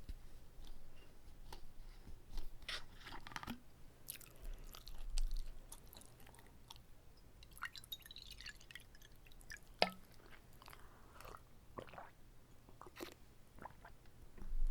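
Close-miked chewing of a whole uncut gimbap roll: irregular wet mouth clicks and soft crunches, with one sharp click about ten seconds in.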